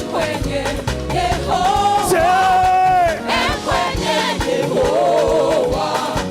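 Live gospel praise music: singers holding long, wavering notes over a band with bass and drums.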